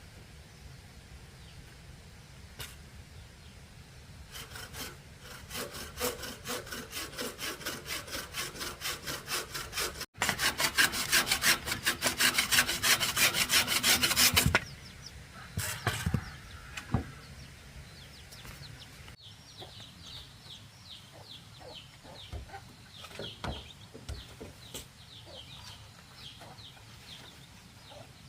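Hand saw cutting bamboo with steady back-and-forth strokes, which turn louder and quicker about a third of the way in and stop suddenly around the middle. A few scattered knocks and faint chicken cheeps follow.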